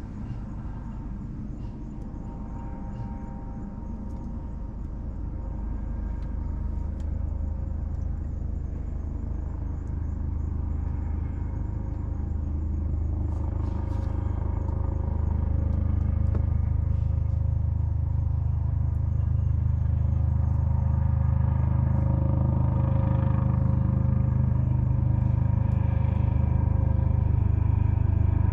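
A low engine-like rumble swells steadily louder over about twenty seconds and then holds, with faint scattered crackles from a wood bonfire.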